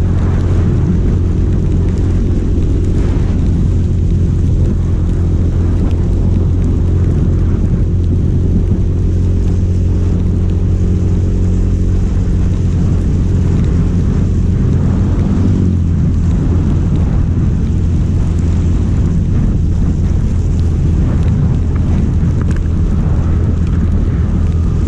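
An engine running steadily and loud, its pitch shifting briefly about fifteen seconds in.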